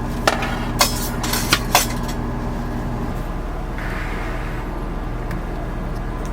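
Cutlery and dishes clinking, about five sharp clinks in the first two seconds, over a steady low hum.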